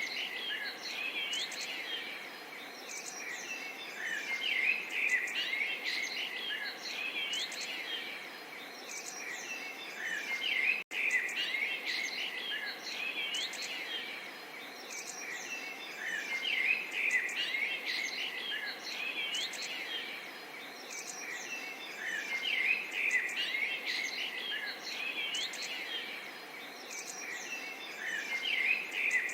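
Many small songbirds chirping and twittering over a soft, steady murmur of running water, with one momentary dropout about eleven seconds in.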